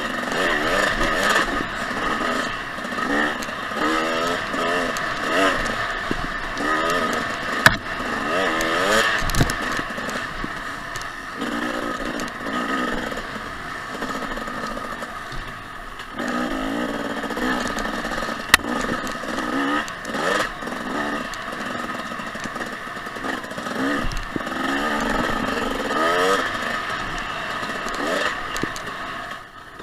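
Two-stroke 250 cc dirt bike engine revving up and down over and over while riding a trail, its pitch rising and falling every second or two. Two sharp knocks stand out, about eight seconds in and again near the middle.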